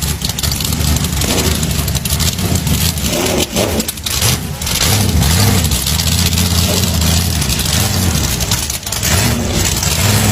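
A vehicle engine running loud, its pitch rising and falling as it is revved, over a steady rushing hiss.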